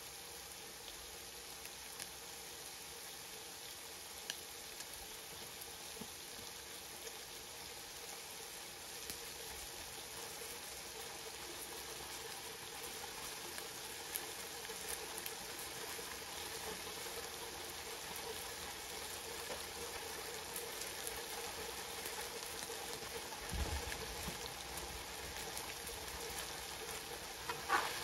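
Diced pork frying in oil in a nonstick wok: a steady sizzle with scattered small pops, growing slightly louder. A dull thump comes a few seconds before the end, and right at the end a metal spatula scrapes and stirs the pan.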